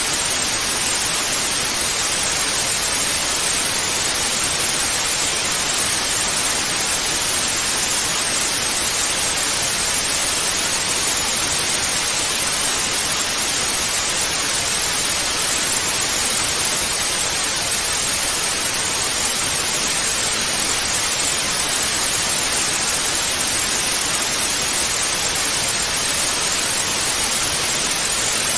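Analogue television static ("snow" on an untuned channel): a steady, even hiss with no change in level.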